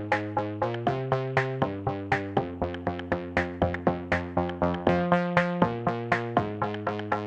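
Electronic dance music with a fast, steady drum-machine beat of about four hits a second and sustained synthesizer chords, played loud over a large SPL sound system stacked with subwoofers.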